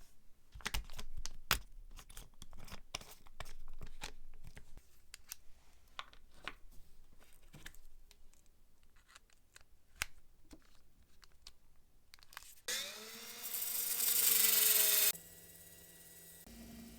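Small metal parts clicking and tapping as they are handled and worked with hand tools, then a power tool runs for about two and a half seconds near the end, its whine rising and falling, before a low steady hum.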